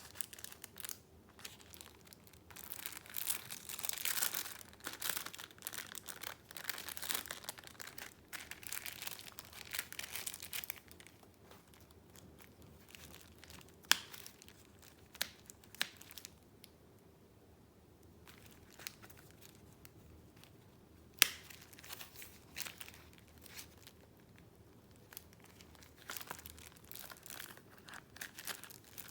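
Paper rustling and crinkling as the pages and paper pieces of a handmade junk journal are handled, in stretches with quieter pauses, plus two sharp clicks in the quieter middle part.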